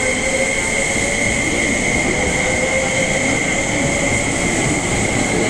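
Tobu N100 series (Spacia X) train departing, its cars rolling past the platform with steady running noise. A faint tone rises slowly as it gathers speed.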